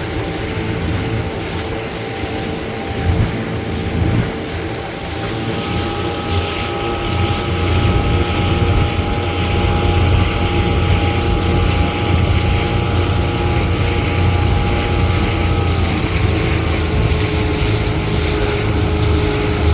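Boat motor running steadily while the boat is underway, with a low rumble and a steady whine; it grows louder about six seconds in and then holds.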